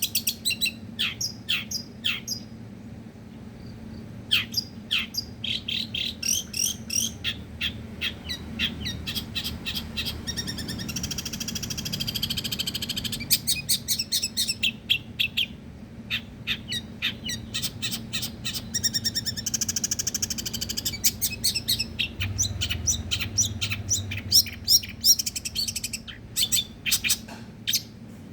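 Long-tailed shrike (pentet) singing in fast runs of sharp, high, repeated notes, broken by short pauses and a couple of denser trilled passages: the rapid-fire 'tembakan' style of song.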